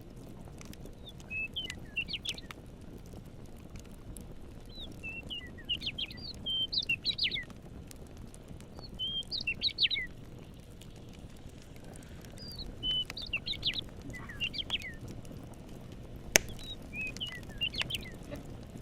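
A songbird singing in five short bursts of quick chirping notes, over a steady low hiss and faint crackling of a campfire. One sharp pop from the fire stands out near the end.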